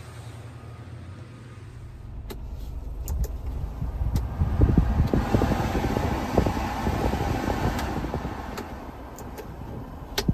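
2000 Honda Acty mini truck running, a low rumble that grows louder about two seconds in, peaks in the middle and eases off toward the end, with a few sharp clicks.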